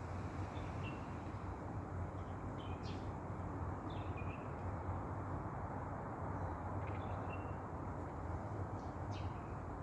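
Birds chirping, short calls repeated about five times, over a steady background noise.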